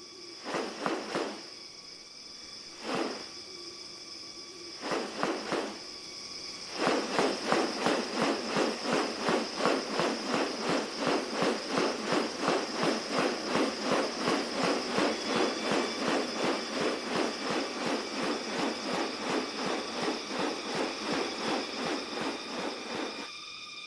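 Steady high-pitched insect chorus of the rainforest, with a few scattered rustling strokes followed, from about seven seconds in, by a fast, even series of strokes, about four a second, that stops shortly before the end.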